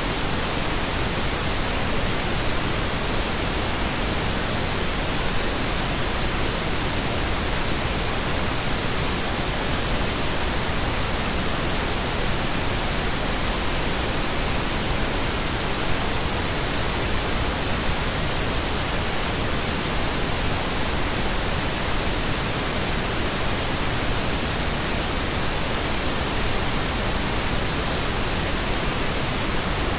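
Steady pink noise: an even, unchanging hiss spread across all pitches, with more weight in the low end than white noise.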